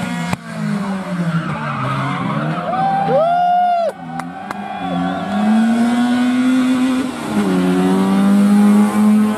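Rally car engine revving and falling through a corner, with a brief high squeal about three seconds in and a few sharp cracks, then holding a steadier note as it pulls away.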